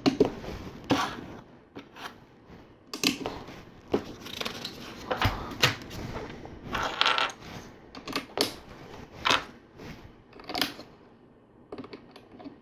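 LEGO plastic plates and bricks clicking and clattering as pieces are picked out and pressed together, in irregular sharp clicks.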